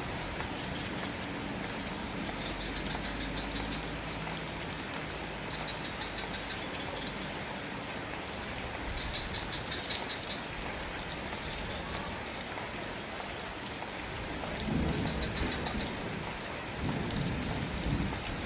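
Steady rain falling. A faint high pulsed chirp recurs every few seconds, and a low rumble rises twice near the end.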